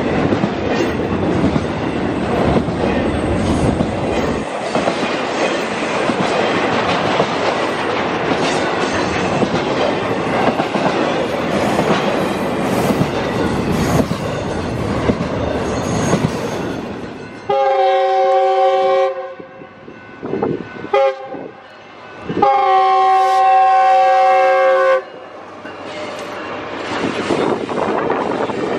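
Intermodal freight train rolling past close by: a steady rumble and clatter of wheels on rail. About seventeen seconds in, the rumble drops away and a multi-tone locomotive horn sounds a long blast, a couple of short blasts, then another long blast.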